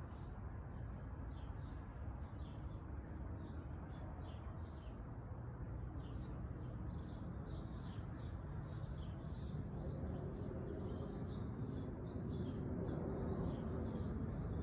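Small birds chirping, short high chirps repeated over and over, coming thicker from about halfway through, over a low steady background rumble that grows a little louder near the end.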